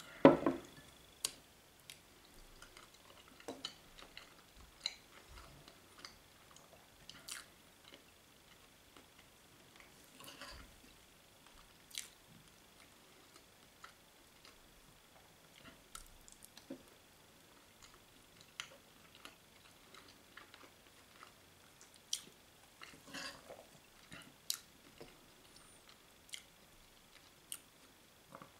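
A person chewing food, with scattered sharp clicks and taps, the loudest just after the start.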